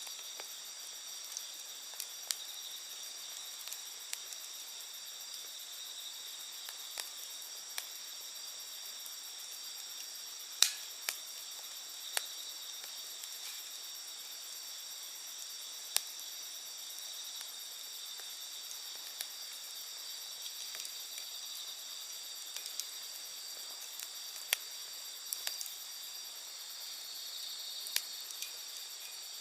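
Wood campfire crackling with scattered sharp pops, the loudest about a third of the way in, over a steady high chorus of insects.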